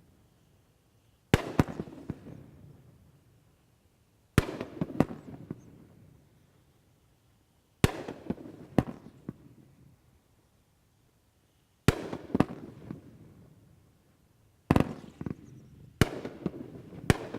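A 'Twisting Tornado' 500-gram, 12-shot firework cake firing. Seven sharp shots come a few seconds apart, each followed by a trail of smaller pops that dies away. The shots come closer together near the end.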